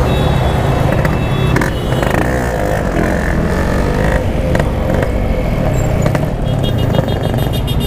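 Yamaha RX-King's two-stroke single-cylinder motorcycle engine running steadily in traffic, with a short run of rapid high beeps near the end.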